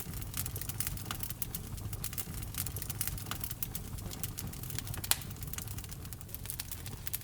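Wood fire crackling in a fireplace: dense, irregular small pops and snaps over a low steady rumble of the flames, with one louder pop about five seconds in.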